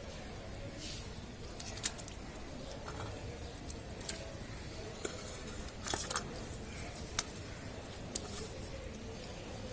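Scattered sharp wet slaps and small splashes in shallow water, about seven over several seconds, the loudest about two seconds in, over a steady background.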